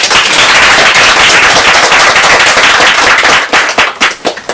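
Audience applause breaking out at the end of a poem recitation. It starts suddenly, holds full for about three seconds, then thins to a few scattered claps near the end.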